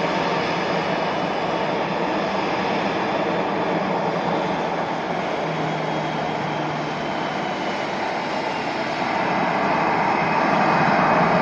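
Jet airliner's engines running: a steady rushing noise with a faint falling whine, growing louder toward the end.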